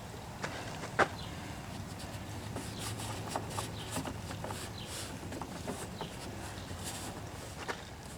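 Faint clicks and light rustles of hands handling and fitting a rubber cowl drain tube on a 1998 Corvette C5, with one sharper click about a second in, over a steady low hum.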